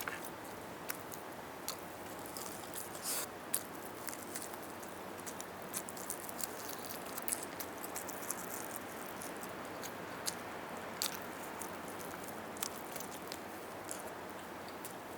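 Close-miked chewing of roast chicken, with scattered small mouth clicks and smacks.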